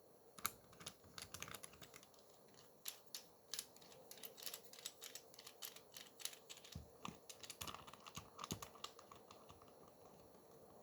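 Faint, quick light clicks and taps in irregular runs, starting about half a second in and thinning out near the end.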